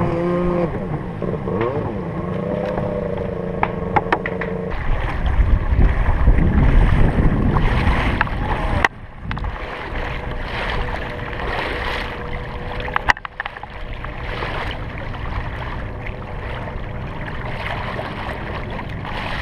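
A kayak under way on open water, with wind on the microphone and water noise and a faint steady whine from an electric trolling motor. The sound cuts off abruptly about nine seconds in and again around thirteen seconds.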